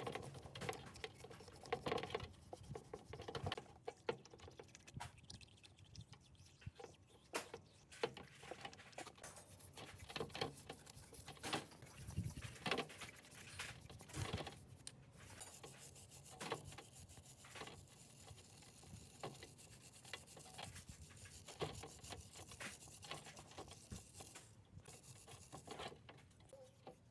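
Hand work on engine parts: irregular small taps, clicks and scraping or rubbing sounds, scattered unevenly.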